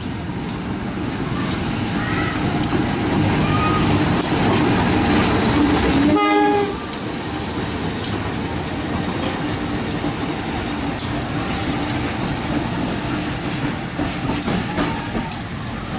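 Freight train of container wagons hauled by a CC 203 diesel-electric locomotive running past close by: a steady heavy rumble with wheels clacking over the rail joints. The rumble builds to its loudest about six seconds in, where a short tone sounds, then stays a little lower as the wagons roll by.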